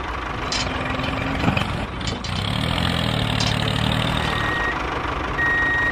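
A vehicle engine idling steadily with a low rumble, and a thin high beep sounding twice near the end.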